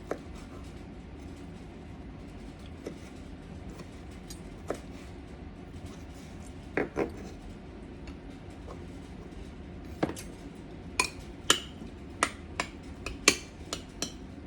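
Kitchen utensils knocking and clinking while preparing pico de gallo: a few scattered knocks, then a quicker run of sharp clinks in the last few seconds.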